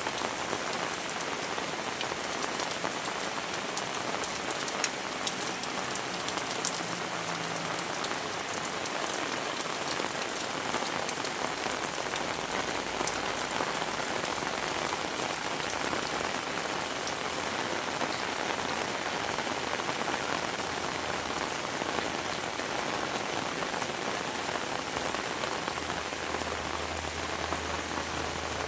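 Heavy rain falling steadily, dense drops pattering with many sharp close ticks. A low rumble comes in near the end.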